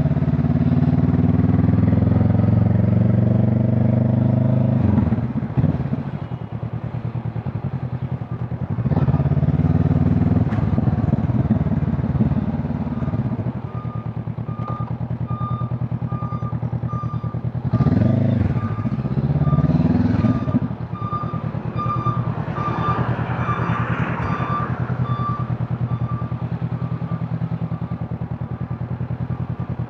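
Honda CB500 Hornet's parallel-twin engine and exhaust under way, the revs rising several times through the gears with short dips between. For about the second half, a high electronic beep repeats a little more than once a second.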